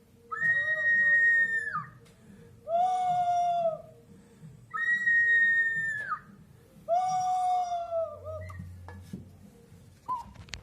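Ceramic whistling jar sounding four whistled, animal-like calls, each lasting over a second. The calls alternate between a high note and a lower one, and each drops in pitch as it dies away.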